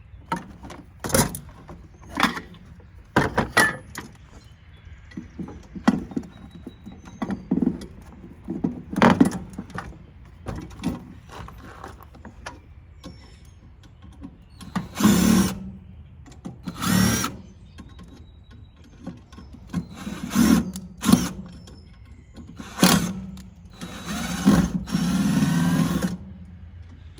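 Power drill running in short bursts, several of about a second and one longer run near the end, as screws are driven out while a tankless water heater is taken apart. Sharp metallic knocks and clicks from handling the parts come between, mostly in the first half.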